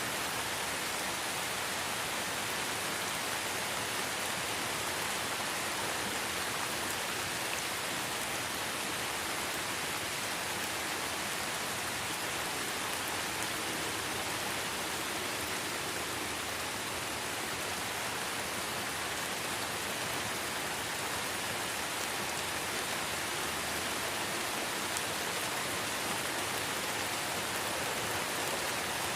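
Light rain falling steadily in a forest, a dense even hiss of drops with no single drop standing out.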